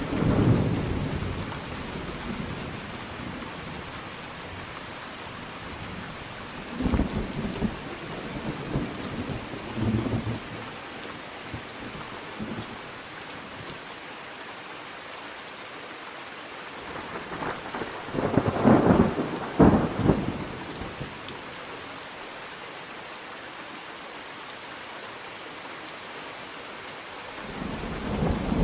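Steady rain with rolling thunder: a rumble just after the start, more rumbles around a quarter of the way in, the loudest claps of thunder a little past the middle, and another rumble building near the end.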